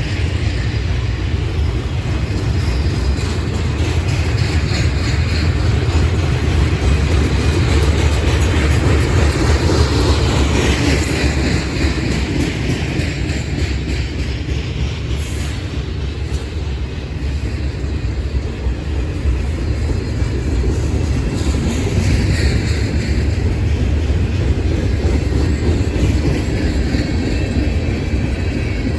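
A train rolling past: a steady, loud, heavy rumble of wheels on the track, swelling a little about eight seconds in and again a little after twenty seconds.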